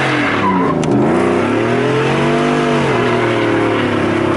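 Engine revving up and down in repeated swells, about three blips. There is a short high tone and a sharp click about a second in.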